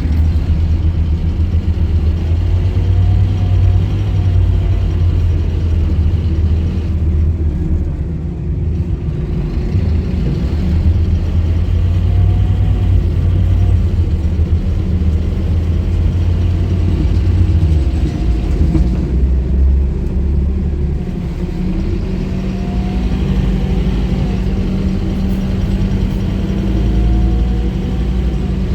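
Scania K230UB bus's diesel engine running with a steady low rumble, while a faint whine rises in pitch several times as the bus pulls away and gathers speed.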